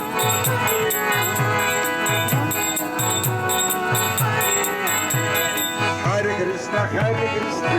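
Kirtan music: a hand drum keeps a steady beat under brass hand cymbals (karatalas) clashing in rhythm, over a sustained instrumental drone. The cymbals stop about six seconds in while the drum and drone go on.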